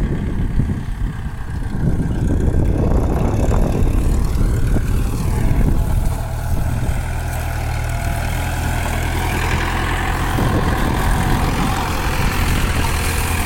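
Kubota farm tractor's diesel engine running under load, with an uneven rumble at first that settles into a steady drone about six seconds in.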